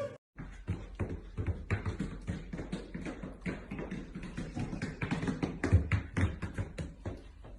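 Rapid, irregular tapping and knocking: many short sharp clicks close together, a few heavier knocks among them.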